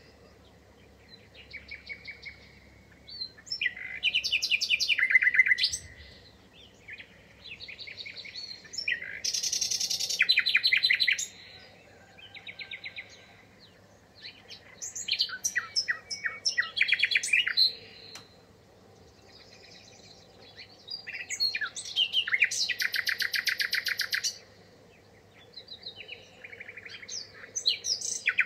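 Songbirds singing in bursts of quick, high chirps and trills, a phrase every few seconds with short pauses between.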